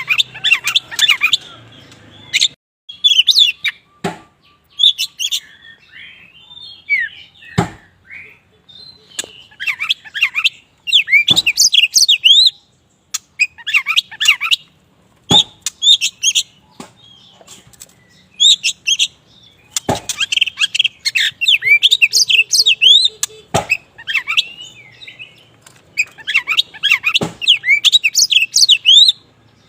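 Oriental magpie-robin of the black kacer wulung form singing in lively bursts of rapid, varied chirps and whistles, each phrase a second or two long with short pauses between. A sharp click cuts in about every four seconds.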